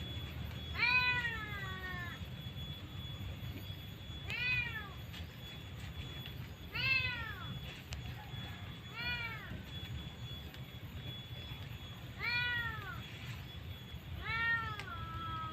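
Cat meowing repeatedly: six drawn-out meows, each rising then falling in pitch, a couple of seconds apart, over a steady low hum.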